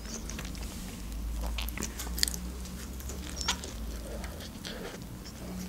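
Close-miked eating of a fried chicken burger: she bites into the bun and chicken and chews, making irregular small wet mouth clicks and smacks.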